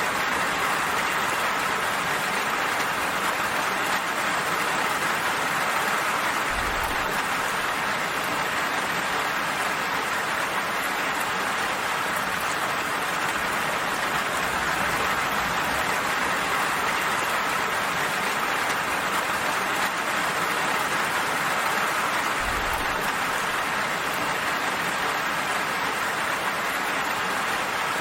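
Steady, even rainfall hissing. Two brief low thumps are heard in the background.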